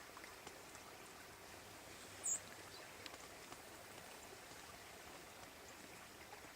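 Faint, steady outdoor hiss of open-air ambience. About two seconds in, a single short, high-pitched chirp of a small bird stands out.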